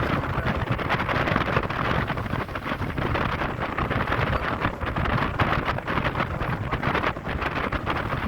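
Wind buffeting the microphone while travelling along a road, over a steady low road and traffic rumble.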